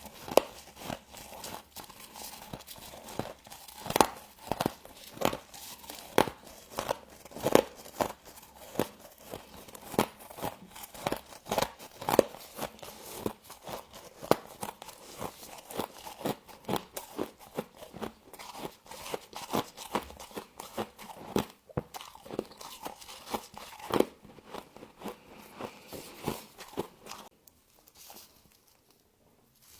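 Frost being bitten and chewed, close up: a long run of sharp, crisp crunches, dying away near the end.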